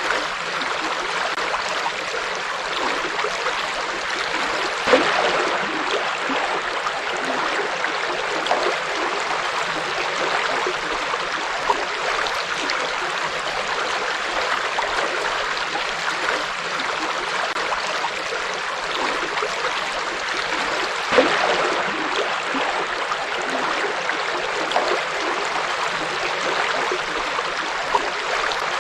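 A river flowing over rocks with a steady rushing and babbling, and occasional louder splashes and gurgles, the strongest about five seconds in and again about twenty-one seconds in.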